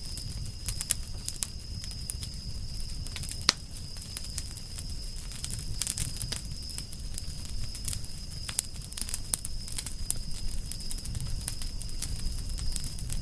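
Wood campfire crackling, with frequent irregular sharp pops and snaps and one louder pop about three and a half seconds in, over a low steady rumble.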